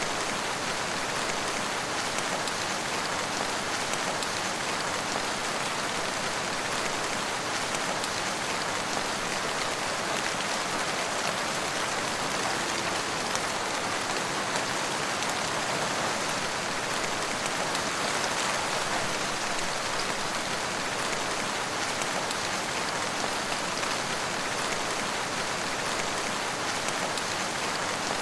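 Steady rain falling on a surface, a constant even hiss of many drops with no thunder or other events.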